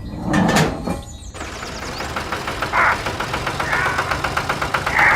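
A small engine running with a fast, even beat, after a short loud clatter about half a second in.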